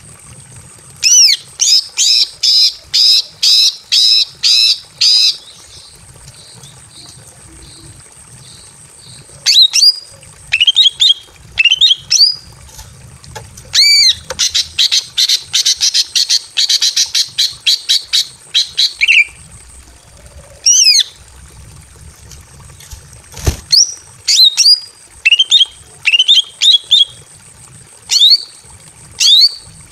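Female greater green leafbird (cucak ijo) in breeding condition, calling for a male with loud, sharp repeated notes: a run of about nine in the first few seconds, a faster chattering series in the middle, then scattered single calls. A faint steady high whine runs underneath, and one sharp click comes about two-thirds of the way through.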